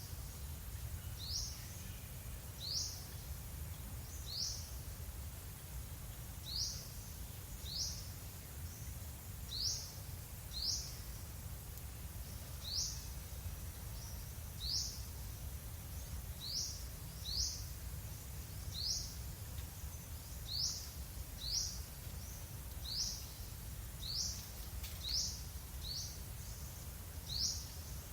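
A bird repeating a single short, high chirp that sweeps upward, about once a second, over a steady low rumble.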